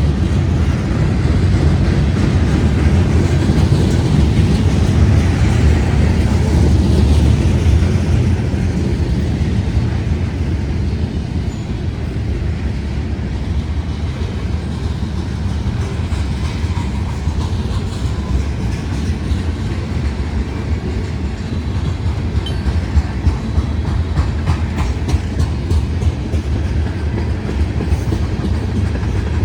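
Freight cars of a mixed manifest train rolling past, a steady rumble of wheels on rail with a rapid clickety-clack of wheels over rail joints, the clicking more distinct in the second half.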